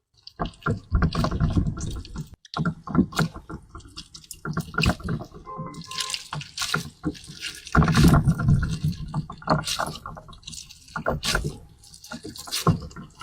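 Wet, liquid handling sounds: a dense, irregular run of squelches, drips and crackling clicks, with a brief gap early on.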